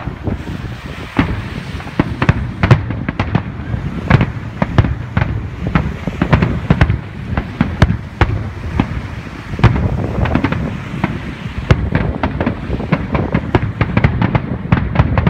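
Aerial fireworks display: a rapid, unbroken string of sharp bangs from bursting shells, several a second, over a steady low rumble.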